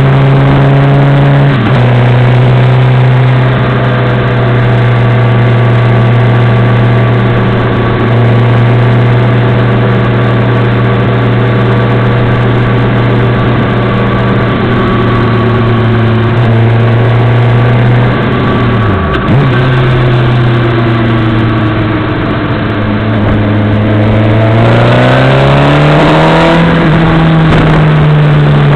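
Motorcycle engine heard through a dash camera's microphone while riding: a steady drone at cruising speed that dips briefly a couple of seconds in, falls in pitch about two-thirds through as the bike slows, then rises as it accelerates and eases off again near the end.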